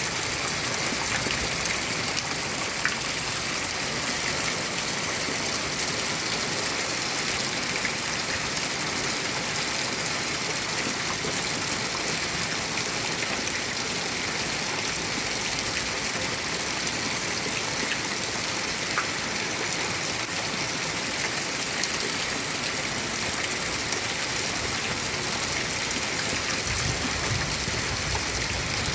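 Steady rain falling in an even hiss, with a few faint drop ticks. A low rumble of thunder starts near the end.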